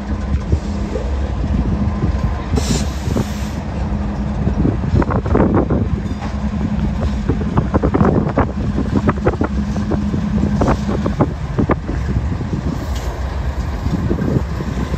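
Freight train passing: a steady low rumble with irregular clanks and clicks of the wheels and cars, thickest in the middle.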